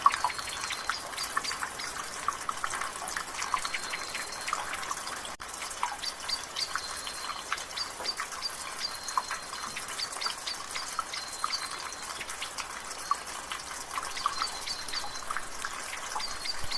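Rainwater dripping and splashing from a gutter over a steady drizzle, with many irregular drips. A bird repeats a short high note every few seconds, and the sound drops out for an instant about five seconds in.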